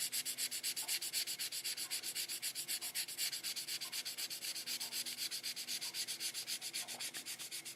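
2400-grit wet sandpaper rubbed back and forth over a model car body in quick, even strokes: a rhythmic rasping hiss.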